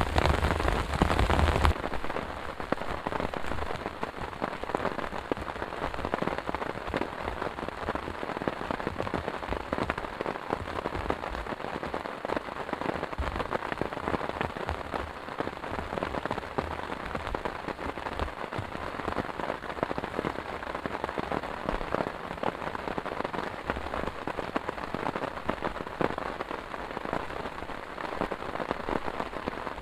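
Heavy rain falling, a dense continuous patter of drops striking a surface. It is louder and heavier for the first couple of seconds, then drops suddenly to a steadier, softer downpour.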